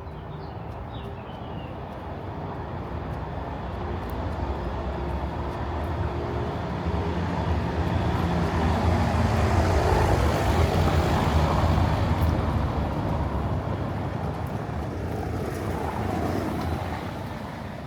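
A motor vehicle passing: engine and road noise grow slowly louder, peak about ten seconds in, then fade away.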